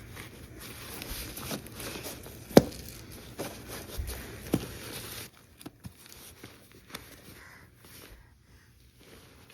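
Indoor rustling and handling noises, with two sharp knocks about two and a half and four and a half seconds in, then quieter.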